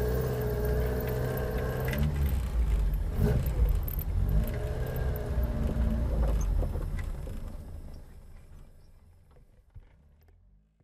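Ford Cortina MKII's engine running with a low rumble, rising briefly in pitch a couple of times, then fading out over the last few seconds.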